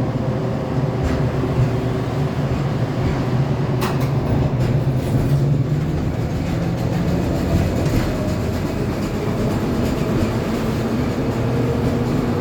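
Tram running along the rails: steady running noise with a low hum and a sharp click about four seconds in.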